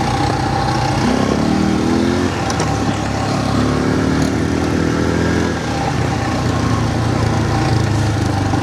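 ATV (quad bike) engine running steadily as it is ridden over a rough trail, its note shifting twice.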